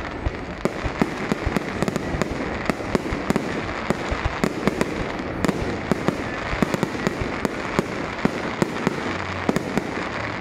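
Fireworks display going off: a dense run of sharp bangs, about two or three a second, over a steady crackling hiss.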